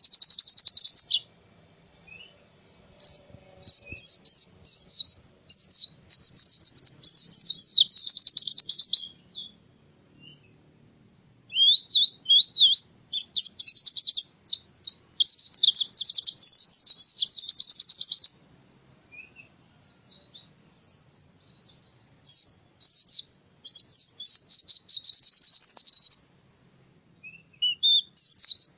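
White-eye (pleci) singing: long runs of fast, high-pitched repeated notes and chattering trills, in bursts of several seconds separated by short pauses.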